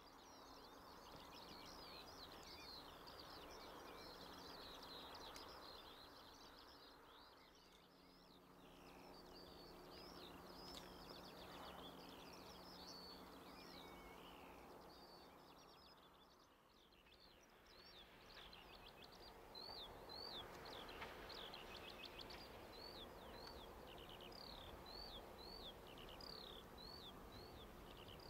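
Small birds chirping and singing, with many quick sweeping notes throughout and thicker towards the end. Underneath is a soft outdoor hush, and a faint low steady hum comes in for several seconds in the middle.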